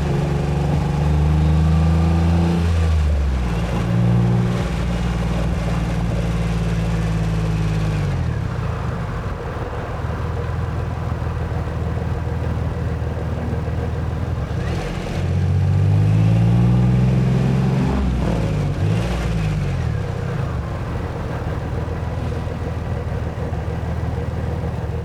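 A 1990s Acura NSX's V6 engine running at a steady cruise from inside the car, with a shift in pitch early on; it then eases off so tyre and road noise takes over. About halfway through the engine note rises as the car accelerates, then falls away again under steady road noise.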